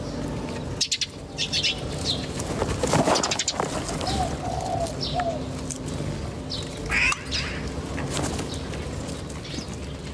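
Several birds chirping, with short high calls and quick ticking trills scattered throughout. A lower, softer call comes about four seconds in.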